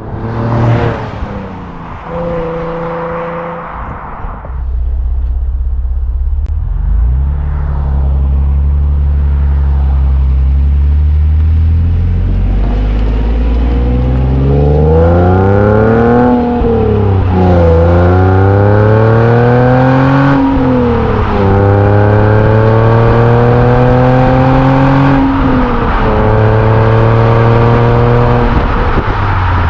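Infiniti V6 with an HKS aftermarket exhaust: a loud burst at the start, then a steady low exhaust note that builds into hard acceleration. The engine pitch climbs and drops sharply three times as it shifts up through the gears, then holds steady near the end.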